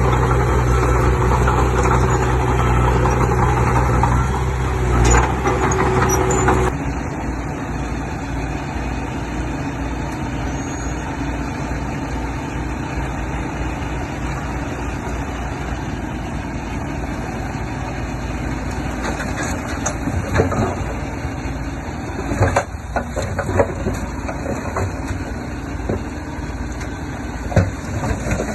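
Diesel engine of heavy earthmoving machinery running steadily. It is loud for the first six or seven seconds, then drops abruptly to a quieter, steady engine run, with a few scattered knocks and clanks near the end.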